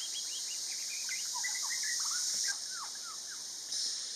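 Birds calling in a quick run of short chirping notes that stop about three seconds in, over a steady high hiss.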